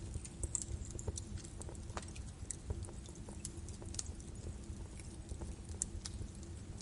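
Birch wood fire crackling in a fireplace: irregular sharp pops and snaps over the low rumble of the flames.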